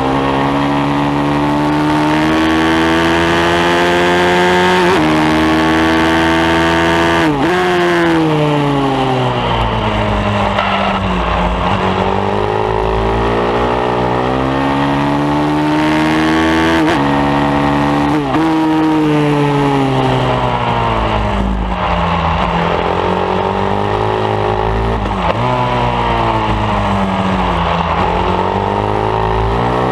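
Pit bike engine at racing speed, revs climbing hard and dropping sharply at gear changes several times. The pitch sinks away as the bike slows for corners and rises again on the throttle.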